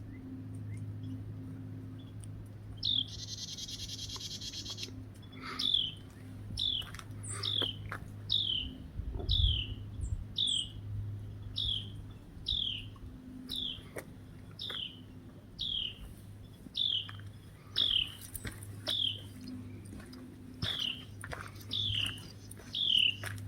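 A songbird repeating a short, high, downward-slurred chirp about once a second, starting about three seconds in, with a short pause near the end.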